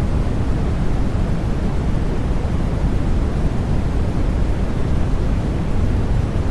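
Steady baby-sleep white noise: an even, unbroken rushing sound that is heavier in the low end than in the highs.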